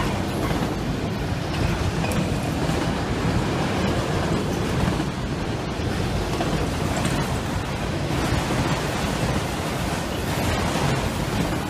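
A train passing close by: a steady rushing noise of wheels rolling on the rails, with a heavy low rumble.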